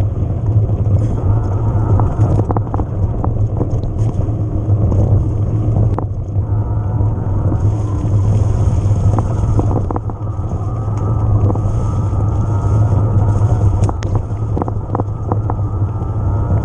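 Riding noise from an electric mountain bike on rough ground: a steady low rumble of wind buffeting the camera microphone, with scattered short clicks and rattles from the tyres and bike over stones.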